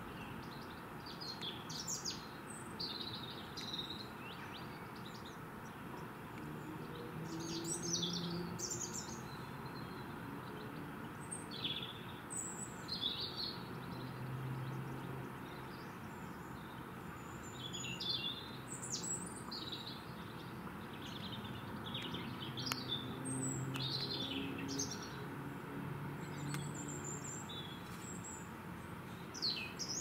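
Small birds calling: short, high chirps and twitters at irregular intervals, over a steady background of low outdoor noise with a faint hum that comes and goes.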